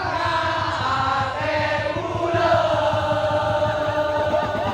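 Madurese daul (tongtong) band music: long-held, wavering melody notes over dense, steady percussion.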